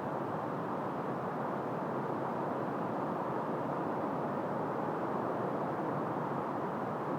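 Steady wind, an even rushing noise with no gusts, knocks or other events.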